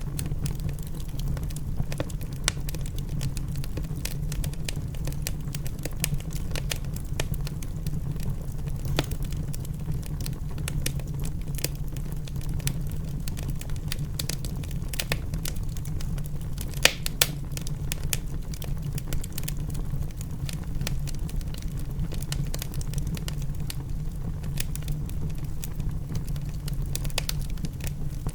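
Wood fire crackling in a fireplace, with irregular sharp pops and snaps over a steady low rumbling background of rain; a couple of louder pops come about 17 seconds in.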